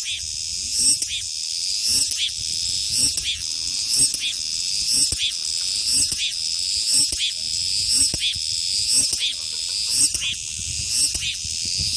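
Cicadas singing: a steady high-pitched drone with a pulsing call that repeats about once a second.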